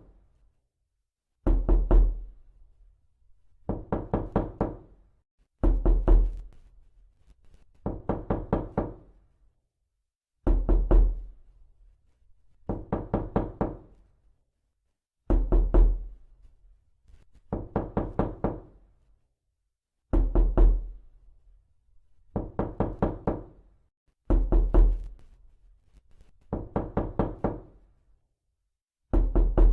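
Knocking on a door, repeated: quick bursts of about five to seven knocks, one burst roughly every two to two and a half seconds, with a dull low thud under the strikes.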